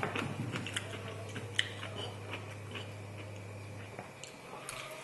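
A person chewing a mouthful of food close to the microphone, with many small clicks from the mouth, over a steady low hum that stops about four seconds in.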